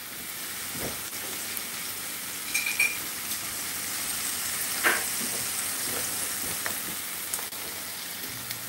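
Chopped onions and green onions sizzling in shortening in a cast-iron skillet: a steady frying hiss, with a few light clicks over it.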